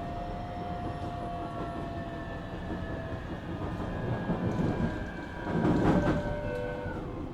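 JR Kyushu 817 series electric train running, its traction inverter and motors whining in several steady tones that slowly fall in pitch as the train slows, over wheel and track rumble. The tones come from a unit with an unusual motor sound likened to the Keio 7000 series. About two-thirds of the way through there is a louder rush of track noise, and the whine dies away near the end.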